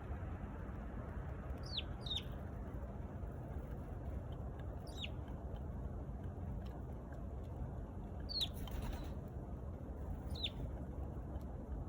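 Eurasian tree sparrow giving short, downward-sweeping chirps, five in all and spaced a few seconds apart, two of them close together near the start. Underneath is a steady low rumble, and a brief rush of noise comes just after the fourth chirp.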